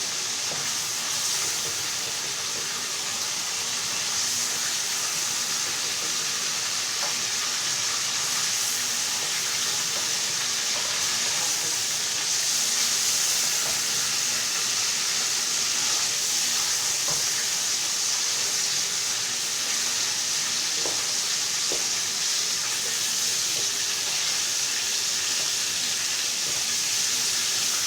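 Chicken pieces frying in hot refined vegetable oil in a pan: a steady sizzling hiss. A few faint clicks of a utensil come as the lightly fried pieces are lifted out.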